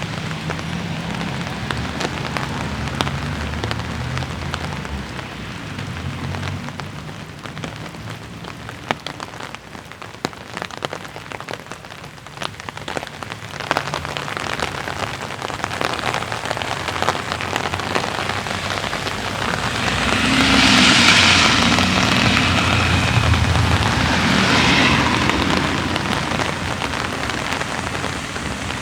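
Light rain falling, a steady hiss with many small drops pattering on nearby surfaces. About two-thirds of the way through, a louder rushing hiss swells for roughly five seconds and then fades back.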